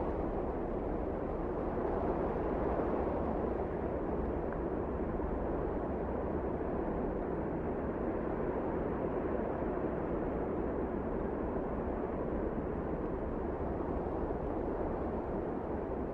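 Wind blowing in a blizzard: a deep, steady rush with a slight swell a few seconds in.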